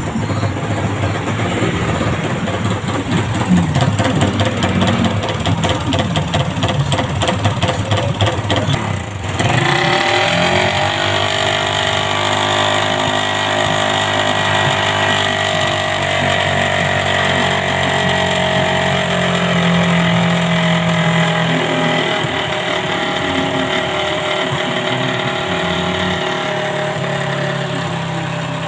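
Suzuki Raider 150 motorcycle's single-cylinder four-stroke engine running, busy and uneven for about the first nine seconds, then settling into a steady idle.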